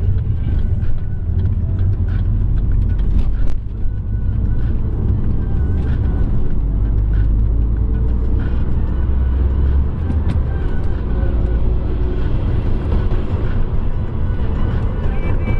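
Car on the move: a steady, loud, deep rumble of engine and road noise, with quiet music faintly underneath.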